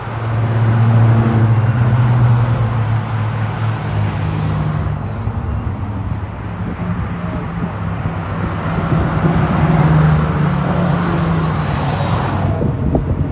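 Classic racing car engines running hard as cars pass on the circuit, loudest in the first few seconds, with the engine note climbing in pitch about midway as they accelerate.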